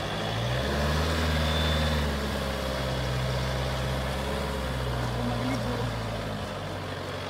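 Vehicle engines running under load as a Land Rover Defender tows a motorhome stuck on wet grass free on a tow strap. The engine note rises about half a second in and settles back down about two seconds in, then runs steadily.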